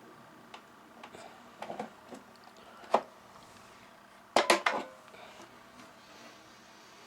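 Hard plastic parts of a Honeywell HWM-910 warm mist humidifier being handled: scattered light clicks and knocks, a sharper knock about 3 s in and a short clatter of several knocks about 4.5 s in.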